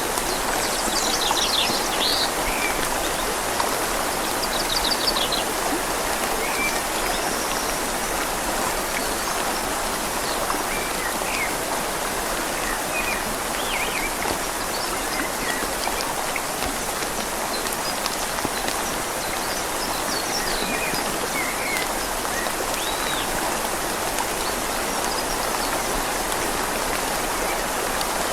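Steady rain falling on leaves over a flowing river, an even hiss of water throughout. Scattered short bird chirps sound above it, most of them in the first few seconds.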